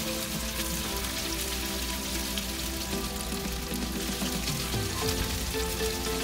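Beef strips sizzling as they stir-fry in butter and oil in a pan, as a steady hiss, with background music.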